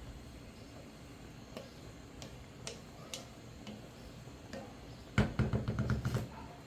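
A kitchen utensil knocking against a cooking pot: a few light clicks, then a quick run of loud knocks about five seconds in.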